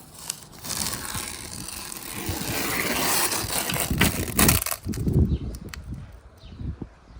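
Caulking gun squeezing Sikaflex MS sealant into a caravan roof joint: a crunching, scraping noise that builds over the first few seconds, with a couple of sharp clicks about four seconds in, then dies away.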